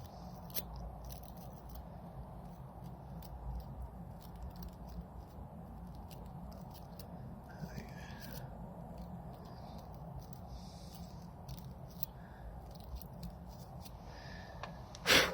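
Toothbrush bristles scrubbing grime out of a motorcycle fuse box's terminals: faint, scattered scratching and ticking. Near the end, a short loud hiss of contact cleaner being sprayed.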